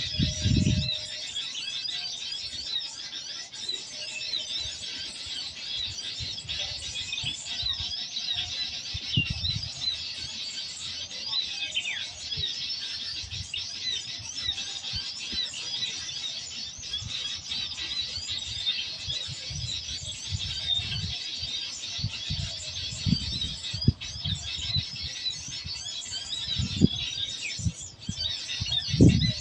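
Dense, continuous chorus of many small birds chirping high-pitched, with scattered low thumps, a few louder ones near the end.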